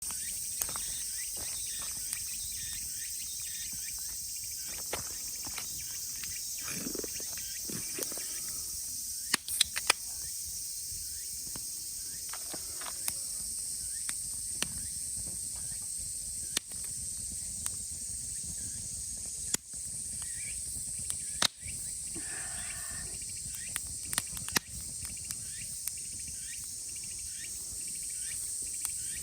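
Steady high-pitched chorus of summer cicadas, with scattered sharp clicks and knocks, a cluster of louder ones about ten seconds in.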